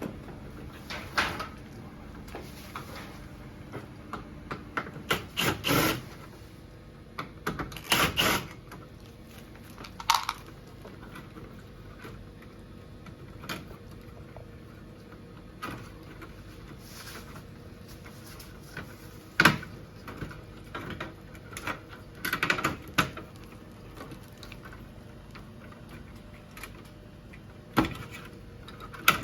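Irregular clicks, taps and knocks of hard plastic and metal parts being handled and fitted, with short clusters of clatter a few seconds apart.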